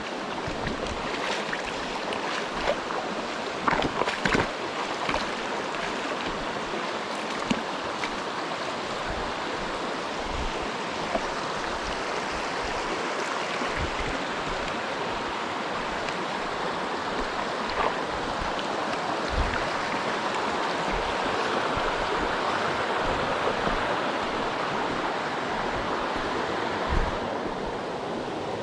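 Mountain stream rushing steadily over rocks, growing a little louder in the second half, with a few sharp knocks scattered through it.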